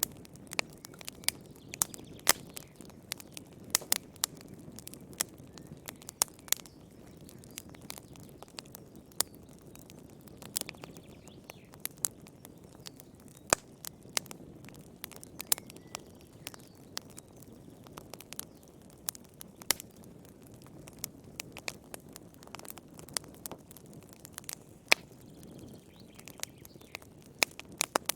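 Wood fire burning in a fireplace, crackling and popping at irregular moments over a soft low rush of flame.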